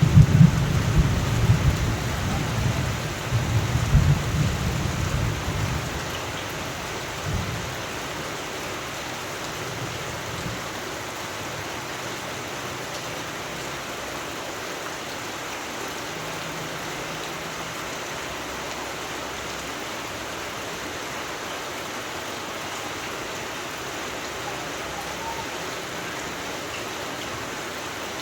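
Steady rain falling, with a roll of thunder rumbling at the start that fades away over the first six seconds or so and a brief last rumble a second later.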